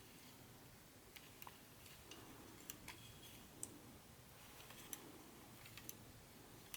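Faint, scattered light clicks and taps from hands handling model-train parts and packaging, about eight over a few seconds, against near-silent room tone.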